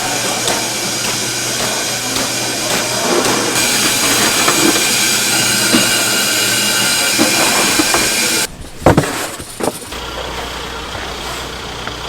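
Loud steady hiss from cooking, cutting off suddenly about eight and a half seconds in. A couple of sharp knocks follow, then a quieter low hum.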